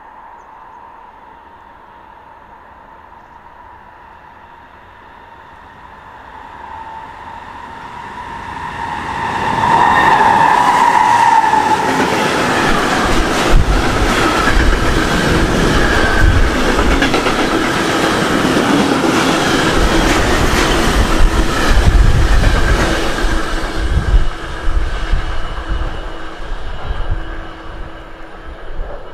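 A train approaching and passing close by on the line: a faint steady ringing of the rails builds over the first several seconds, then gives way to the loud rumble of the passing cars with the clack of wheels over rail joints, easing off near the end.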